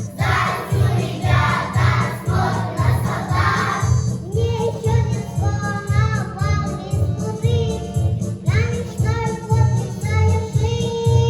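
A children's vocal group singing a song over a recorded backing track with a steady bass beat.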